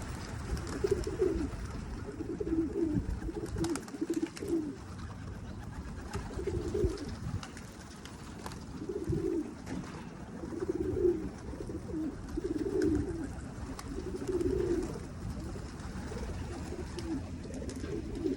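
Pigeons cooing over and over, a low warbling coo every second or two, with wind rumbling on the microphone.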